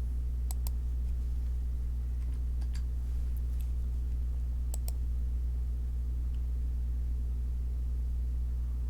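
Scattered sharp clicks from a computer mouse and keyboard, a quick pair about half a second in, a few more around three seconds, and another pair near five seconds. Under them runs a steady low electrical hum.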